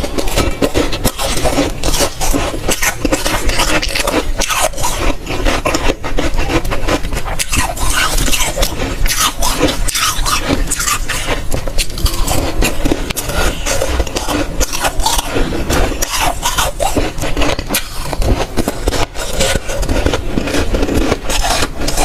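Dry, soft freezer frost crunching close to the microphone as it is bitten and chewed, a dense run of sharp, crisp crackles.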